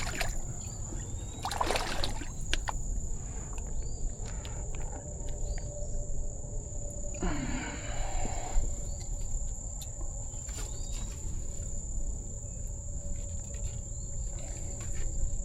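Insects trilling outdoors: one steady high-pitched drone with no break, over low background noise. A few short noises cut in, the longest about seven seconds in.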